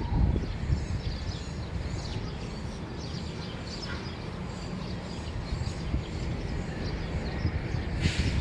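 Dawn chorus of small birds chirping and singing over a steady low rumble. A brief louder hiss comes near the end.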